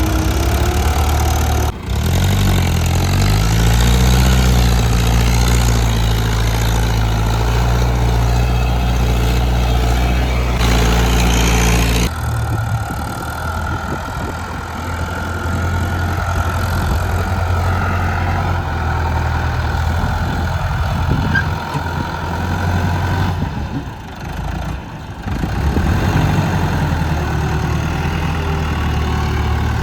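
Heavy diesel machinery engines running, with a rise in pitch about two seconds in as the revs climb. The sound changes abruptly around twelve seconds and again near twenty-four seconds.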